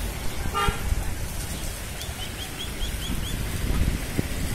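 Steady low outdoor rumble beside a flooded river. A short tonal call comes just under a second in, and a quick run of six or seven high bird chirps follows between about two and three seconds in.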